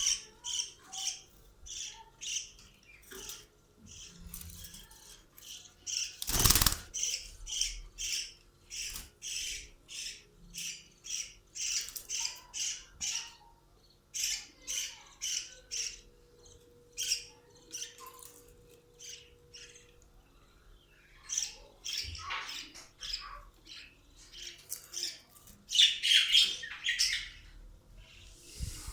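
Budgerigars chirping in their cages: a steady run of short high calls, about two a second. A single sharp knock comes about six seconds in, and there is a louder burst of chatter near the end.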